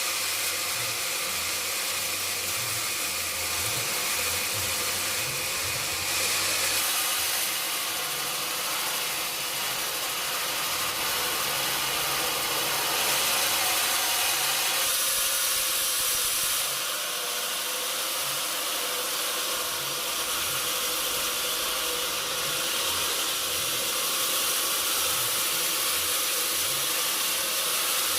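Sawmill saw running and cutting mahogany wood: a steady, hissing machine noise whose character shifts a couple of times as the cut goes on.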